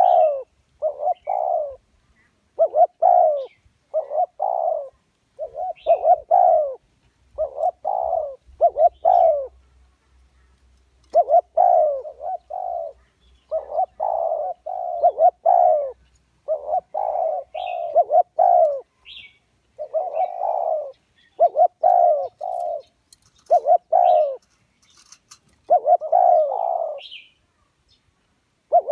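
Spotted dove cooing over and over, in short phrases of two or three low notes with brief pauses between them.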